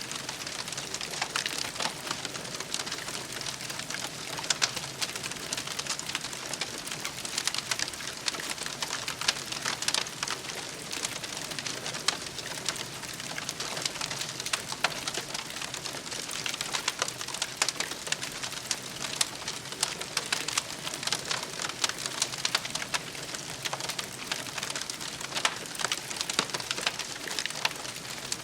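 Wood campfire crackling steadily, with a dense run of small irregular pops and snaps over a soft hiss.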